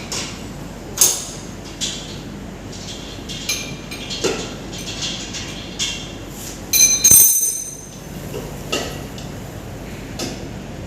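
Steel wrench and bolts clinking and knocking against the metal cover of an engine's cooler as the cover is being unbolted, with a louder ringing metal clank about seven seconds in. A steady low hum runs underneath.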